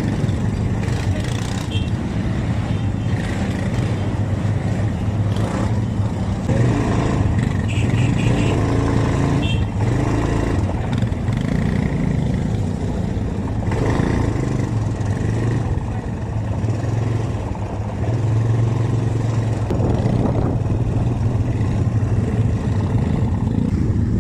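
Several quad bike (ATV) engines running steadily at idle as the group waits to set off.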